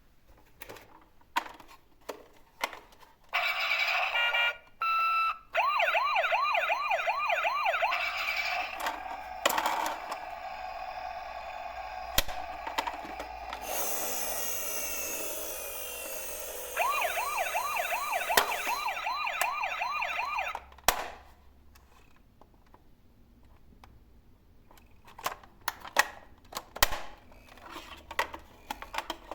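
Toy vehicle's electronic sound effects: a fast warbling siren, a steady tone, a stretch of hiss, then the warbling siren again, with scattered clicks before and after.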